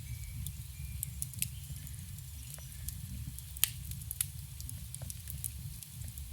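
Campfire burning: wood crackling with scattered sharp pops over a low, steady rumble of flames, one pop louder than the rest about three and a half seconds in.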